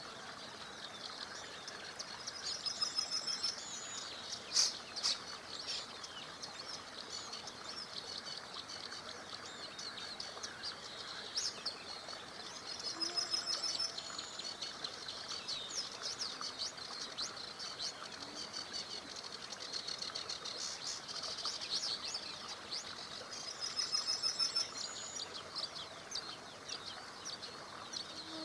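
Several songbirds singing over the steady rush of a small river, with one bird repeating a rapid trilling phrase three times, about ten seconds apart.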